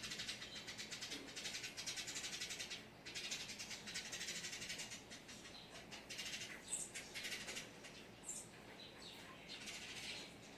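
Birds calling outside a window: long, fast rattling trills, each lasting a few seconds, with short high chirps between them.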